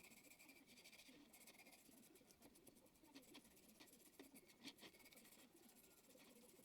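Faint scratching and rubbing with scattered light clicks, one a little sharper about four and a half seconds in: quiet hand work.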